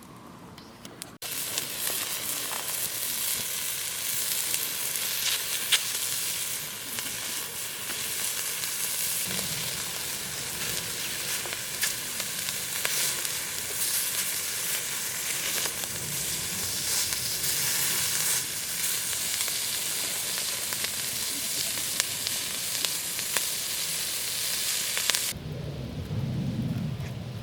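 Food sizzling and spitting on hot metal over a fire: a steady frying hiss dotted with sharp crackles. It cuts in abruptly about a second in and cuts off abruptly near the end.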